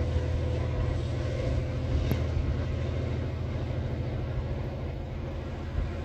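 Henschel diesel locomotive hauling a passenger train along the track, a steady low rumble of engine and rolling coaches that slowly fades as the train moves away.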